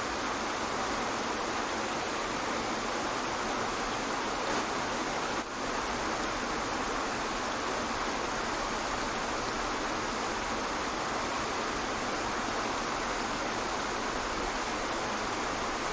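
Waterfall, a steady rush of falling water with an even hiss, and a brief dip in level about five seconds in.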